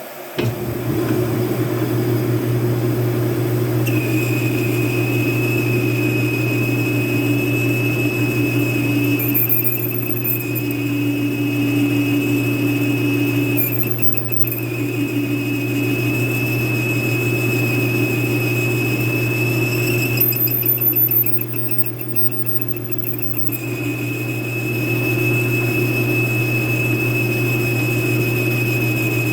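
Metal lathe motor switching on and running with a steady hum, while metal is cut from a shell mill chucked in it. From about four seconds in, the cut gives a high-pitched squeal that breaks off a few times and comes back.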